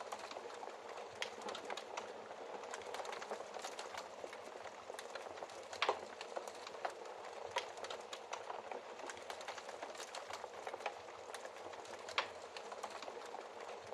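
Wood fire crackling in a fireplace: a steady hiss of small crackles with sharper pops scattered through it, the loudest about six seconds in and again about twelve seconds in.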